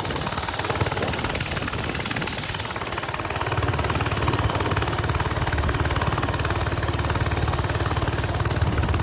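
Coleman mini bike's small single-cylinder four-stroke engine running under way, with fast, even firing pulses. It grows louder and deeper about three and a half seconds in.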